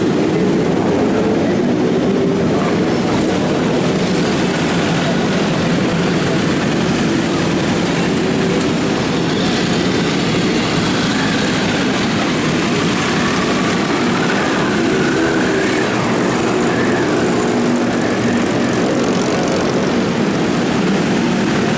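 Several big motorcycle engines running together, loud and steady, with a little change in pitch now and then.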